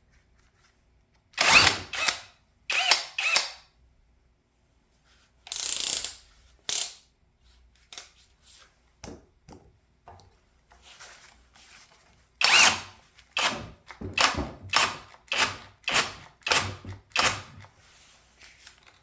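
Brushless cordless drill with a 7/8-inch bit in drywall, spinning up in short spurts that each cut off within a second. The drill is shutting itself off under load. The spurts come about two a second near the end.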